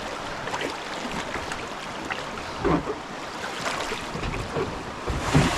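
Rushing whitewater river with splashes and knocks from kayak paddles and hulls, with louder hits about halfway through and near the end.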